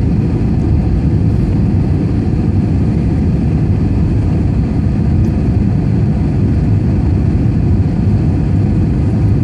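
Steady, loud rumble of an airliner cabin: engine and airflow noise.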